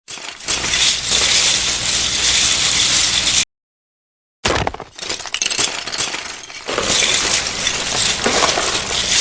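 Smash sound effect of many small pieces clinking and breaking, like shattering glass and scattering debris. It runs for about three and a half seconds, cuts off dead for about a second, then starts again and carries on.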